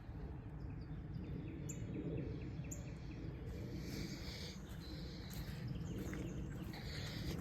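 Birds calling: two sharp high chirps that drop in pitch, about a second apart, over a quick run of soft repeated notes, with further short calls later. A steady low rumble runs underneath.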